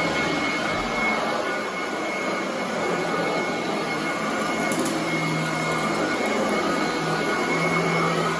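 Commercial upright vacuum cleaner running steadily on carpet, a constant rushing motor noise with a thin high whine, its low hum swelling a little now and then as it is pushed.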